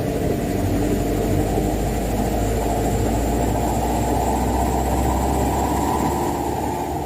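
Mitsubishi Canter dump truck's diesel engine running steadily with a low, even drone.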